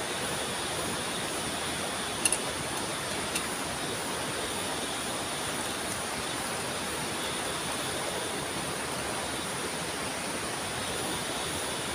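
Steady rushing of water, an even hiss with two faint high steady tones over it. Two short sharp clicks come about two and three seconds in.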